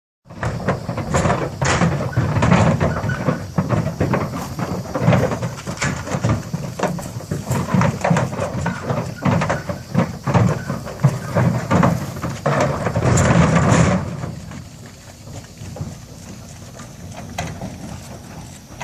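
Heifers' hooves clattering and banging on the metal deck and ramp of a cattle semi-trailer as the herd unloads; the dense clatter thins out to a much quieter stretch about fourteen seconds in.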